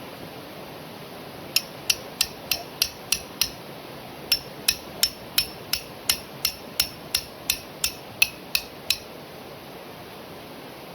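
Rapid, ringing hammer strikes on metal, about three a second: a run of seven, a short pause, then about fourteen more, over steady heavy rain.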